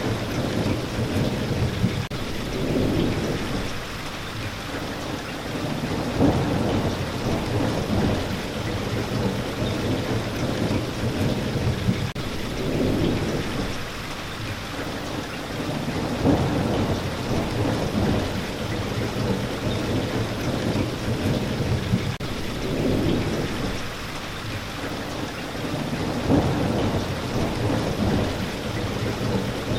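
Steady heavy rain with low rolling thunder rumbling that swells and fades every few seconds; the same stretch seems to repeat about every ten seconds, as in a looped recording.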